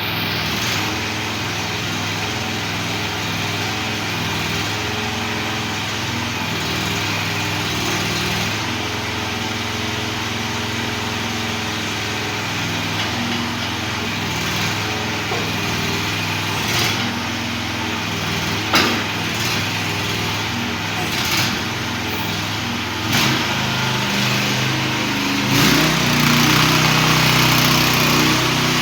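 Mini excavator's 420cc single-cylinder gas engine running steadily, with a few sharp clanks of the machine working in the second half. About three-quarters of the way through the engine note changes and gets louder, as under more load or throttle.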